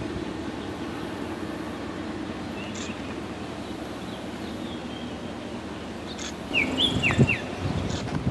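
A few short, falling bird chirps over a steady low rumble that grows louder near the end.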